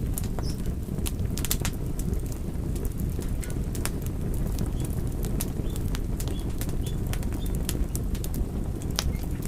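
Wood fire crackling: frequent sharp, irregular pops and snaps over a steady low rumble of the flames.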